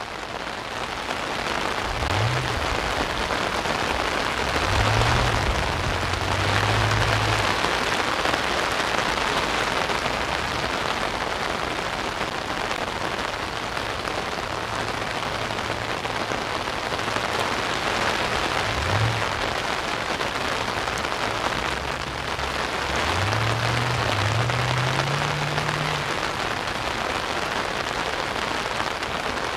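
Heavy rain falling on an umbrella overhead and on the sea, a steady, dense hiss of drops. Under it, a low hum rises in pitch a few times.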